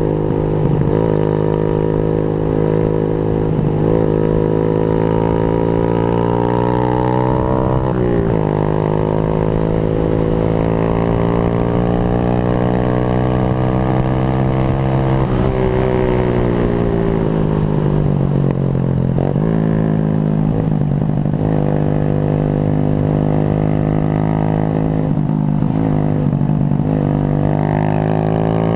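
Motorcycle engine running under load through the gears. Its pitch climbs steadily and dips briefly at each shift. Past the middle it falls away for a few seconds as the bike slows, then jumps up sharply on a downshift and climbs again.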